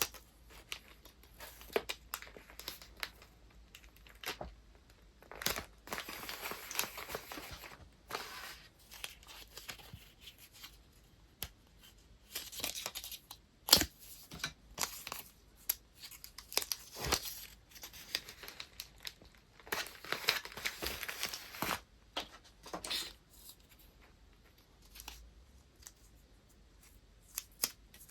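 Paper and wrapping material being handled: several stretches of crinkling and tearing, each a second or two long, with sharp taps and clicks in between, the loudest about 14 seconds in.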